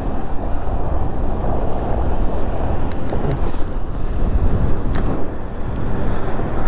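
Wind buffeting the microphone, a loud steady rumble, with a few faint clicks about three and five seconds in.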